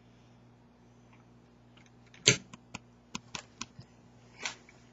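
Toy fire truck being handled: a knock about two seconds in, followed by a quick run of light clicks and taps.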